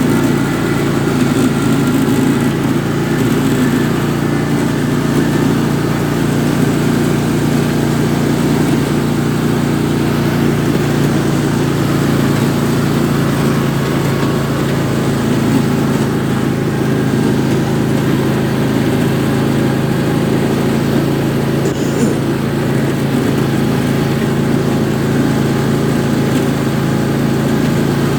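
Riding lawn tractor's small engine running steadily.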